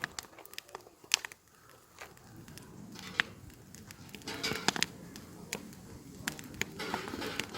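Campfire burning, the wood giving off irregular sharp crackles and pops over a low hiss of flames. The crackling grows busier about halfway through.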